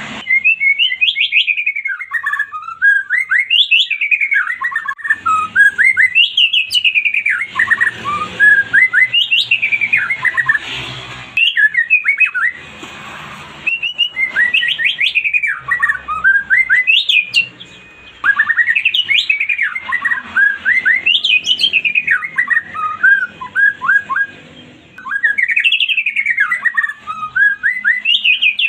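White-rumped shama singing a loud, fast song of rising and falling whistled phrases, delivered in runs of a few seconds with short pauses, with some harsh rasping stretches in the middle; a lure song of the kind used to provoke a silent shama into singing.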